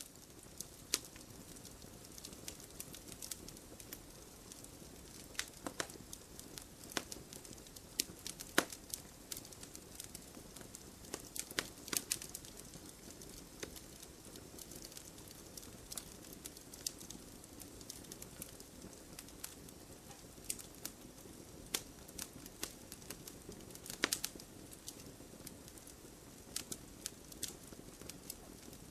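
Wood bonfire crackling: irregular sharp pops and snaps over a steady soft hiss of burning. A few pops stand out louder, the strongest about eight and a half seconds in and again about twenty-four seconds in.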